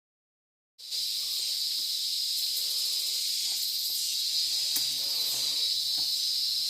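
Rainforest insect chorus of cicadas and crickets: a steady, high-pitched drone that cuts in abruptly just under a second in, with a few faint ticks over it.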